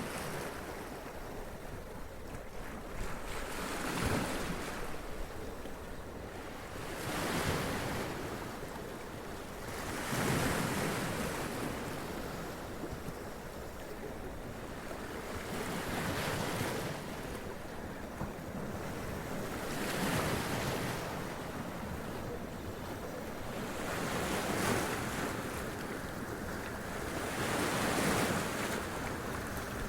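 Sea waves running up onto rocks and splashing, each wave a surge of surf noise that swells and falls away about every three to four seconds, with wind on the microphone.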